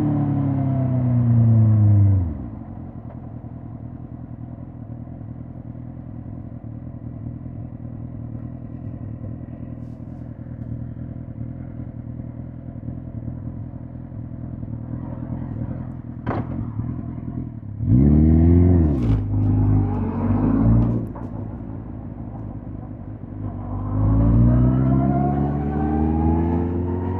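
2005 Suzuki GSX-R1000 K5's inline-four engine dropping in pitch as the bike slows, then idling steadily for about fifteen seconds. Partway through, the throttle is blipped a couple of times, and near the end the revs climb as the bike pulls away.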